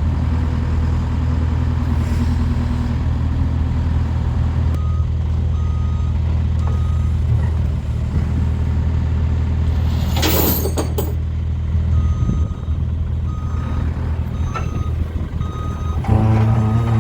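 Backhoe's diesel engine running steadily while its reverse alarm beeps in short runs, starting about five seconds in and again near the end. About ten seconds in comes a short sharp hiss of air.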